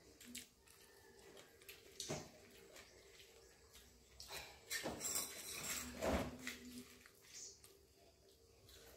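Faint, scattered crunches and clicks of someone eating fried spinach pakoras, a little louder between about four and six seconds in, over a faint steady hum.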